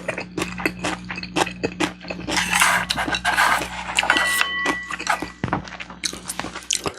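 Close-miked chewing with quick wet mouth clicks, then from about two seconds in a louder, noisier stretch of eating and tableware handling with a brief high squeak.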